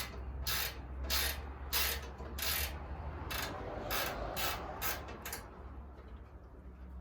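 Hand ratchet wrench being worked back and forth on a bolt: about nine short raspy clicking strokes, coming quicker toward the end and stopping about five and a half seconds in.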